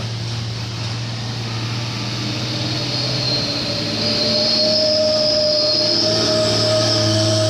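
Heavily loaded dump truck working through a tight bend: a steady low engine drone, joined about three to four seconds in by a high, steady squeal that grows louder.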